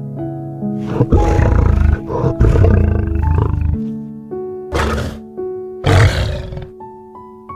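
Lion growling and roaring: one long rough growl about a second in, then two shorter roars, over piano music.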